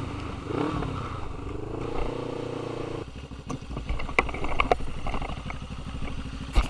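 Motorcycle running through a Black Widow stainless steel full exhaust system. After a cut about three seconds in, it settles into a rapid, even low pulse at low revs, with a few sharp clicks.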